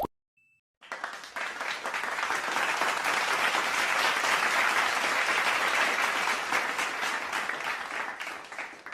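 Crowd applauding: dense clapping starts about a second in, holds steady, and tapers off near the end.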